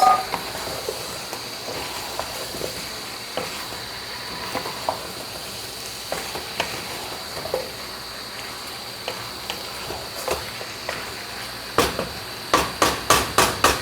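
Chicken pieces and potatoes sizzling in hot oil in a cooking pot, with scattered light clicks. Near the end, a quick run of sharp knocks: a spoon striking the pot as the curry is mixed.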